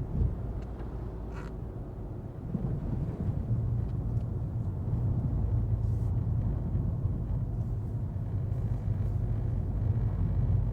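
2025 Volkswagen Golf TDI's 2.0-litre four-cylinder diesel and its tyres on a wet road make a low, steady driving rumble while the car is under way. The rumble grows louder about three seconds in and then holds. There is a short thump at the very start.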